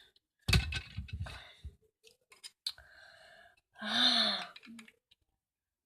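Plastic Lego bricks clicking and rattling as they are handled and sorted, with a loud rustling rush on the microphone about half a second in and a short wordless vocal sound, like a sigh or hum, about four seconds in.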